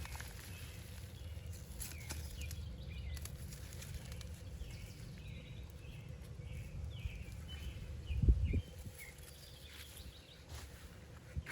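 Small birds chirping in a run of short, falling notes over a steady low rumble. A dull thump about eight seconds in is the loudest sound, with a few faint clicks scattered around it.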